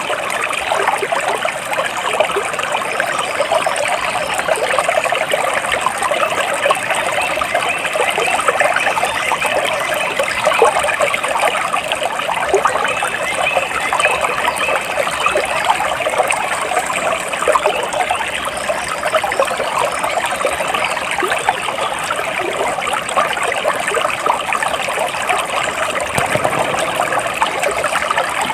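Shallow stream water trickling and bubbling steadily over stones.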